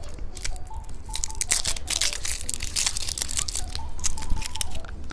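A candy wrapper being torn open and crinkled, a run of sharp crackles and rustles that is densest in the middle.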